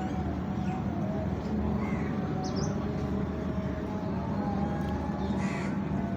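Crows cawing: several short calls, the loudest one near the end, over a steady low rumble.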